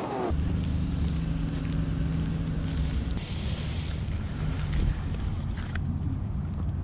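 Kawasaki KLR650's single-cylinder engine running at a steady pitch, with a slight shift in tone about three seconds in.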